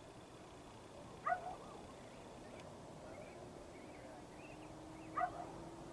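A dog barking faintly, two single barks about four seconds apart, over a faint steady hum.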